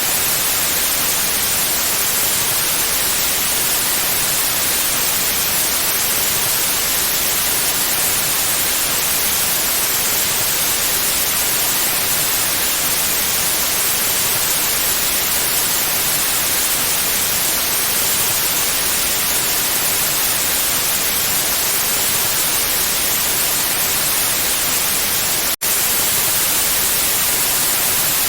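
Steady white noise, an even bright hiss with no tones or rhythm, broken by a split-second dropout a few seconds before the end.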